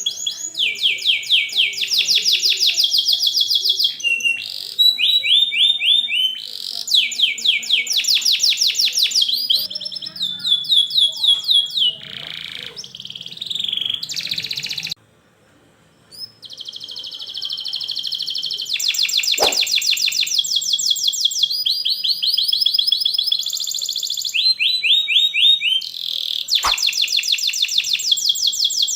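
Domestic canary singing a long, dense song of rapid rolling trills and chirps, switching to a new repeated note every second or two, with a brief pause about halfway through.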